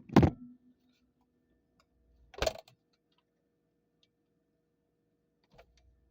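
Handling knocks as a phone is flipped over inside a fridge: a loud knock right at the start and a softer bump about two and a half seconds in, with a faint steady hum underneath.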